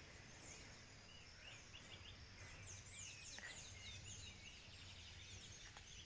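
Faint birdsong: many short, quick chirps from several small birds, over a quiet, steady low background hum.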